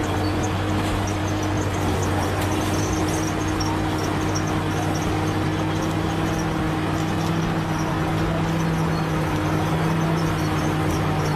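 Bulldozer's diesel engine running steadily under work, its low hum strengthening about seven seconds in.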